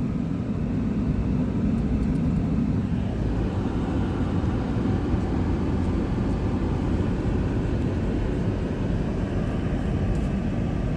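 A vehicle driving: steady engine and road noise, strongest in the low end, with no distinct events.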